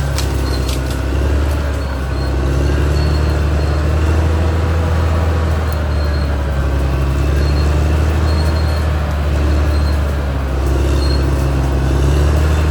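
Caterpillar D6R XL bulldozer's diesel engine running steadily with a deep hum, with short high-pitched squeaks recurring throughout.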